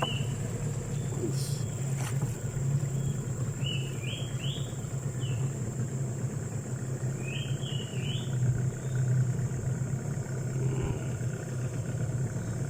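Steady low motor drone, with two short clusters of high rising chirps about four and eight seconds in over a constant thin high whine.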